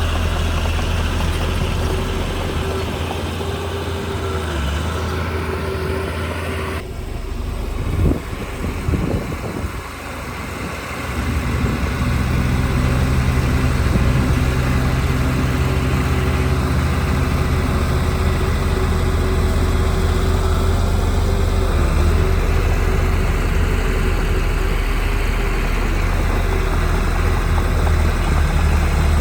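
Heavy diesel engine of earthmoving machinery running. Its sound changes abruptly about seven seconds in, and a few low knocks and surges follow. From about eleven seconds on it runs steadily and a little louder.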